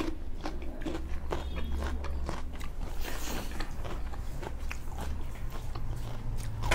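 People chewing a mouthful of pork and rice, with many short smacks and clicks from lips and teeth.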